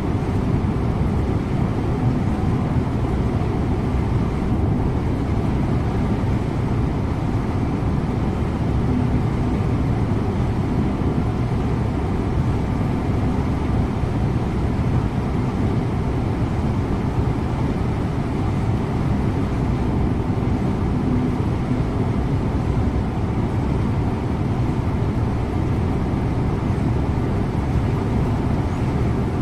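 Scania InterLink bus driving at a steady pace, heard from the driver's cab: a constant low engine and road noise with no changes.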